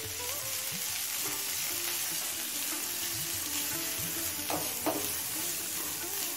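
Sliced onions sizzling in hot mustard oil in a frying pan while a wooden spatula stirs them, with two short scrapes of the spatula against the pan a little past halfway.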